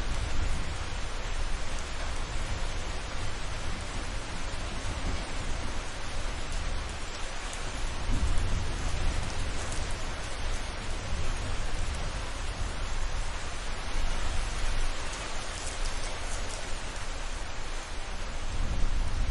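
Steady heavy rain, with a low rumble of thunder that swells about halfway through and again near the end.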